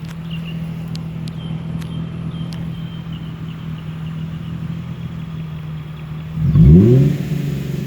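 Nissan 350Z's 3.5-litre VQ35DE V6 with a muffler delete (stock resonator, Y-pipe and cats) idling steadily through the exhaust, then revved once about six and a half seconds in, climbing and falling back, with a second rev just starting at the end.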